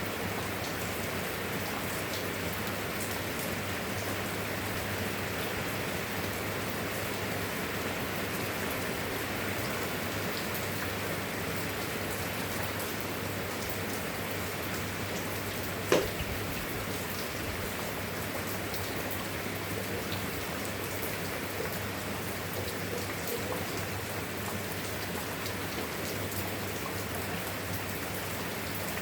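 Steady, even rain falling, with one sharp tap about halfway through.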